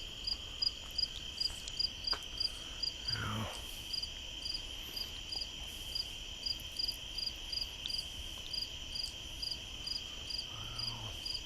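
Night insect chorus: a steady high trill with a second insect chirping evenly about two to three times a second.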